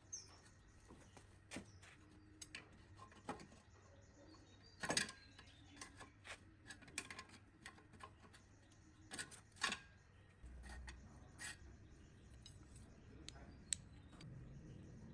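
Irregular light clicks and metallic taps of small metal parts and hand tools being handled, over a faint low hum, with a few louder taps about five seconds in and again near the middle.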